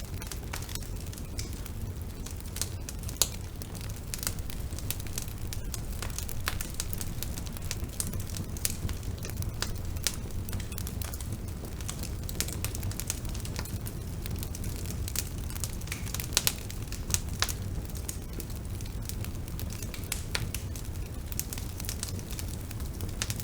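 Bonfire burning with a steady low rumble and frequent irregular crackles and pops, a few sharper pops standing out.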